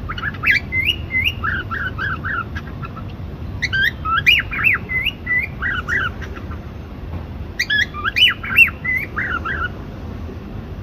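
Cockatiel whistling and chirping in three bursts of quick rising and falling notes, about a second apart, over a low steady background hum.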